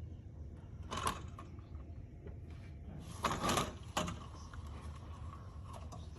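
Wind on the microphone: a steady low rumble, broken by short, louder noisy bursts about a second in and again from about three to four seconds in.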